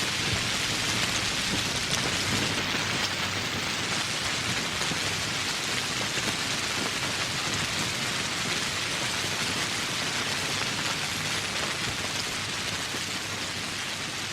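Steady, heavy rain falling as a dense even hiss, slowly growing quieter toward the end.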